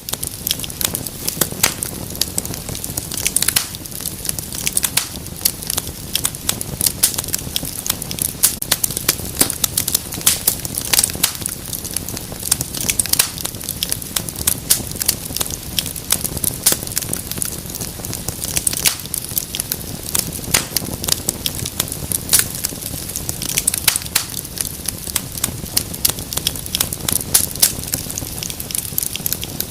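Wood fire crackling in a fireplace: dense, irregular pops and snaps over a soft steady low rumble of the flames.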